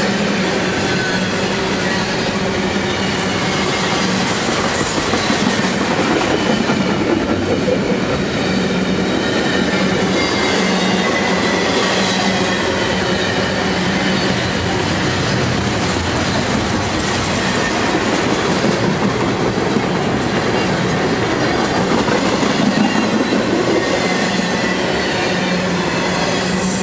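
A double-stack intermodal freight train's well cars roll steadily past close by, their steel wheels running on the rails with a dense, continuous sound. Wavering high squeals come from the wheels.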